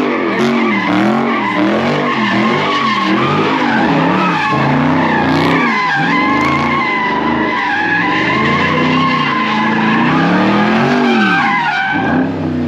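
Car drifting in a lot: the tyres squeal steadily while the engine revs rise and fall about once a second as the driver works the throttle, with a bigger rev rise and drop near the end.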